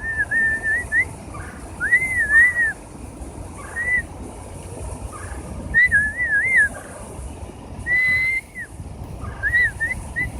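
A bird singing a run of clear, slurred whistled phrases that rise and fall in pitch, ending in a quick series of short upslurred whistles.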